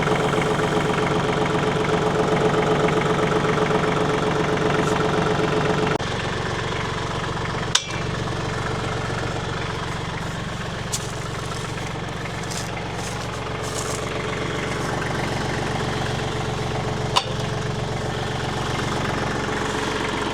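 Compact tractor engine running steadily; about six seconds in its tone and level drop slightly. Two short sharp knocks stand out over it, one at about eight seconds and one near seventeen seconds.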